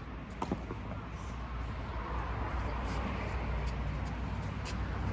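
Two sharp knocks of a tennis ball about half a second in, then a few faint ticks, over a low rumble that slowly grows louder.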